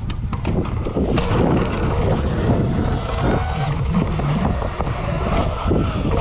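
A vehicle on the move, with a steady low rumble and heavy wind buffeting on the microphone.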